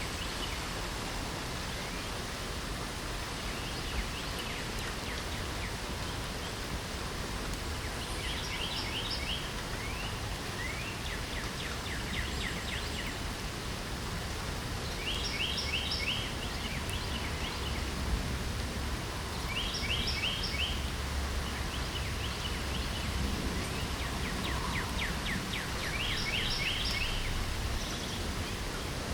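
Steady hiss of light rain, with a songbird singing a short, rapid trilled phrase every few seconds, about five times.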